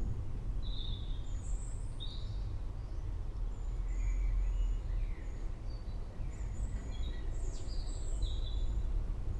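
Birds chirping in short, scattered calls over a steady low rumble of a thunderstorm.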